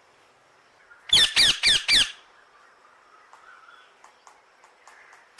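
A parrot giving four loud, harsh squawks in quick succession about a second in, each call dropping in pitch, followed by faint ticks.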